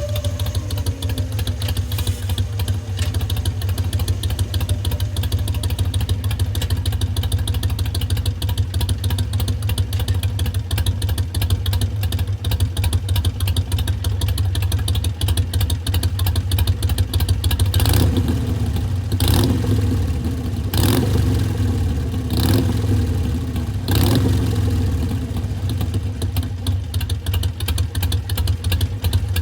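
Harley-Davidson Sportster Iron 883's air-cooled 883 cc V-twin idling through Vance & Hines Twin Slash slip-on mufflers, with the uneven three-beat idle lope. Five short throttle blips follow one another quickly about two-thirds of the way through, then it settles back to idle.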